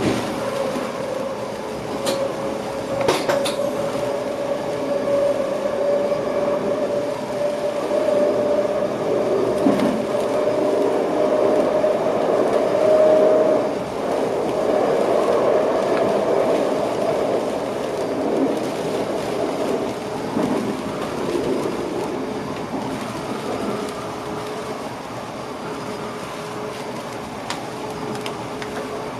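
Cab interior of an electric passenger train running on the rails, with a steady rumble of wheels and track. A whine from the drive climbs slowly in pitch and stops about halfway through, while the rolling noise carries on. A couple of sharp clicks come in the first few seconds.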